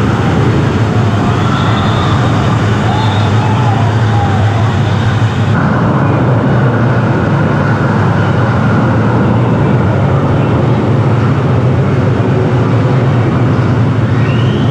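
Loud, steady rush and rumble of fast-flowing water, as on a wild-water river ride, with faint shouts far off.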